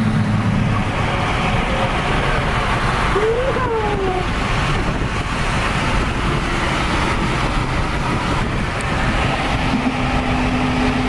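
Straight-piped third-generation Acura TL's V6 exhaust droning steadily while cruising, over road and tyre noise.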